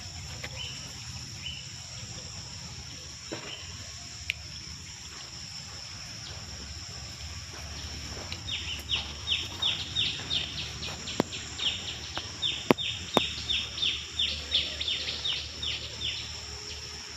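Outdoor nature ambience: a steady high insect drone, and from about halfway in a bird singing rapid runs of short falling notes, about four a second.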